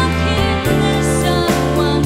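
Big band playing: sustained chords held over bass notes that change a few times.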